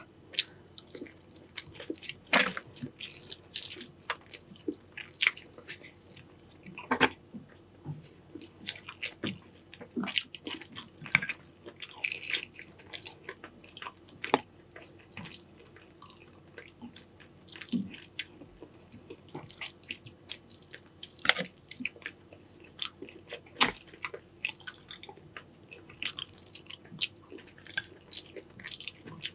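A person chewing and biting into a seafood boil in Cajun sauce, close to the microphone: wet chewing with many irregular sharp clicks and smacks.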